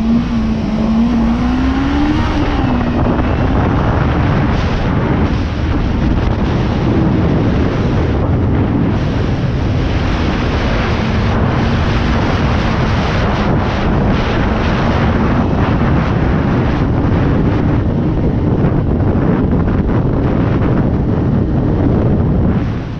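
Suzuki GSX250R's parallel-twin engine running under way, heard under heavy wind noise on the microphone. Its note rises and dips over the first few seconds, then holds steady, and the sound stops abruptly near the end.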